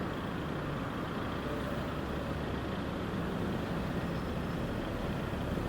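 Steady city street traffic: vehicle engines running with a low, even hum and no sudden sounds.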